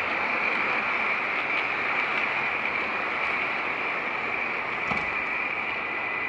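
O scale model train running on the layout's track: a steady whir and rumble from the motor and wheels, with a constant higher hum over it.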